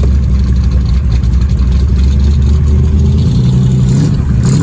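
Cobra's V8 engine running just after start-up with a loud, steady low rumble; about three seconds in the revs rise a little as the throttle is opened.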